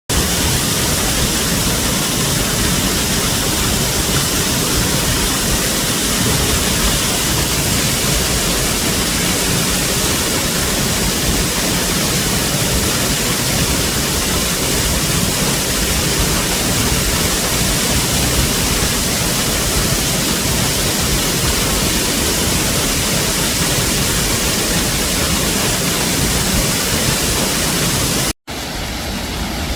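Waterfall: a steady, loud rush of falling water. It cuts out briefly near the end and gives way to a quieter rush.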